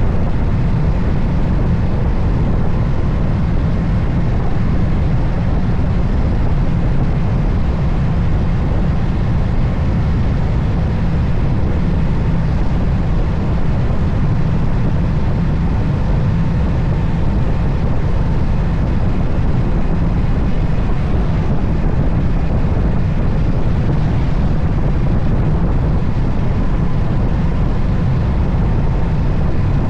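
Moto Guzzi Stelvio motorcycle riding along at a steady speed: a constant low wind rush and rumble over a faint, even engine hum.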